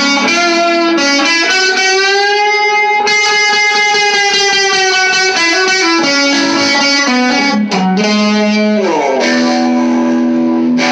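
Electric guitar with both pickups mixed, played through a tube amp: single-note lead lines with long sustained notes, one held for a few seconds near the middle with a slight vibrato. It gives a 60s rock lead tone.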